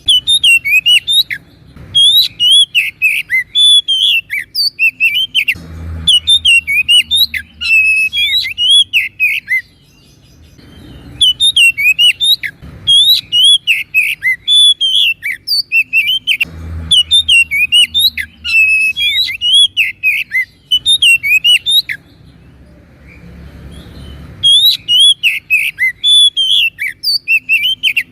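Oriental magpie-robin (kacer) singing loudly: fast runs of sharp, gliding whistles and chirps in long bursts broken by short pauses, with a pause of about two seconds near the end.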